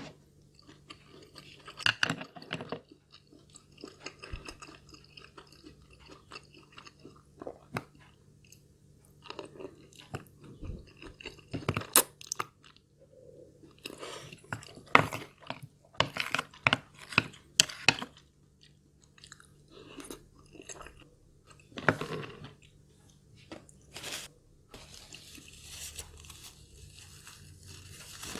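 Close-miked eating sounds: a person chewing and crunching mouthfuls of food, with sharp wet clicks coming at irregular intervals.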